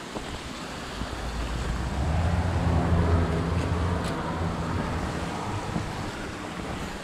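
A passing engine: a low hum that swells to a peak about three seconds in and then fades, over wind noise on the microphone.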